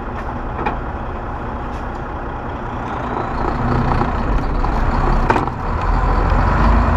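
Semi-truck running down the road, a steady low engine drone with road noise that grows louder about three seconds in, with a sharp click a couple of seconds later.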